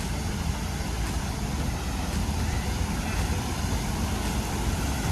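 City street traffic: a steady rumble of passing vehicles' engines and tyres.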